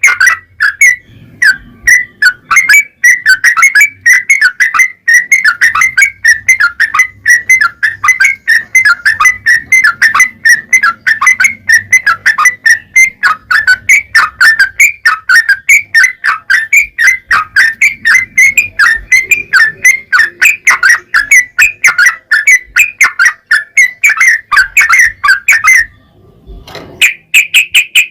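Yellow-vented bulbul (trucukan) song: a long, fast, unbroken run of repeated notes, about four or five a second, that breaks off about 26 seconds in, then resumes briefly at a slightly higher pitch near the end.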